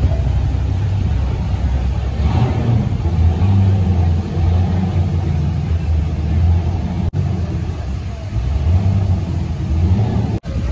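A car engine idling with a deep, steady low rumble.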